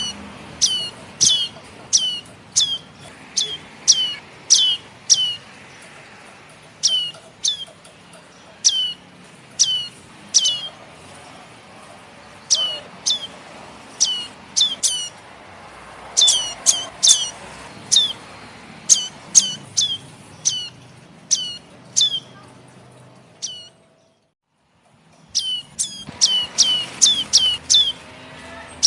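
Young red-headed prenjak (prenjak kepala merah) calling: a long series of sharp, high chirps, each sweeping quickly downward, coming about one or two a second. All sound cuts out briefly about 24 seconds in, then the chirping resumes.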